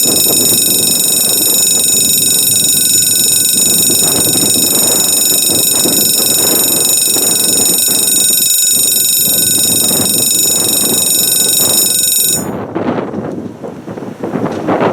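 An electric alarm bell ringing continuously, as a steady high-pitched ring that cuts off suddenly about twelve seconds in, over a rumbling, gusty noise that carries on to the end.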